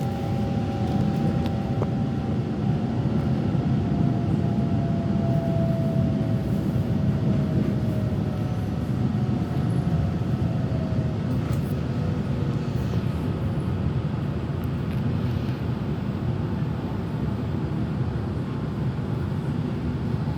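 Steady low rumble of a train running, heard from inside the carriage, with a faint whine that falls slightly in pitch over the first ten seconds as the train slows toward the platform.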